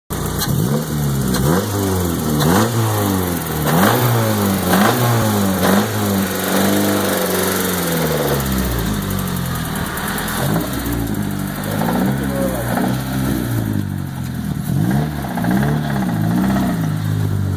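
Honda Accord's F22 four-cylinder engine revved hard again and again, its pitch climbing and dropping in repeated throttle blips with one longer climb midway. The engine has a knocking connecting rod.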